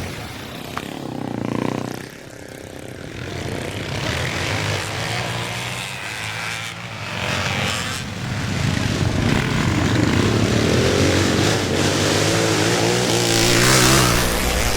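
Classic motocross bikes racing, their engines revving up and down as they work the track, growing louder in the second half as bikes come closer.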